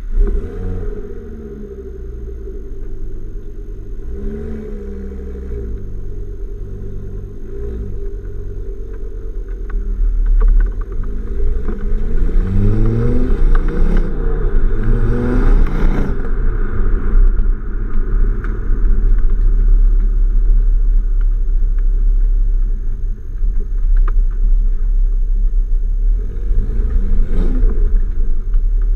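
Ford Focus ST's turbocharged 2.5-litre five-cylinder engine through a decatted, non-resonated Milltek exhaust, revved in short blips that rise and fall, then in bigger revs about halfway through, before running loud and steady. Occasional sharp crackles come from the exhaust.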